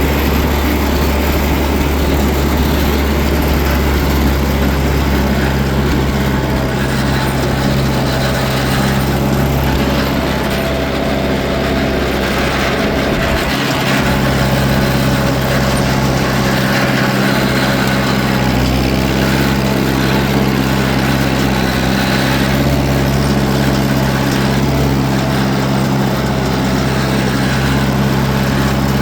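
Tractor engine running steadily at a constant speed, a low hum with a strong, even tone.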